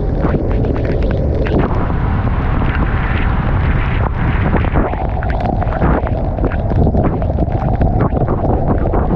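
Wind buffeting the microphone of a GoPro on a moving motorcycle: a loud, steady low rumble with crackling all through it.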